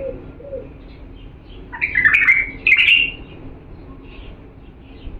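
Bulbul singing: one loud, quick phrase of clear whistled notes about two seconds in, followed by softer scattered chirps. A dove coos low at the very start.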